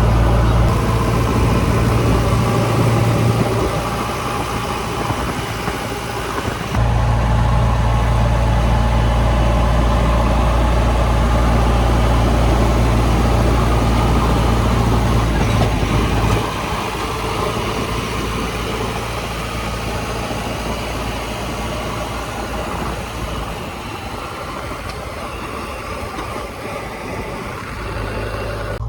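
JCB 3DX backhoe loader's diesel engine running steadily. Its deep low hum drops away a few seconds in, comes back abruptly about seven seconds in, and falls away again about halfway through, leaving a lighter engine drone.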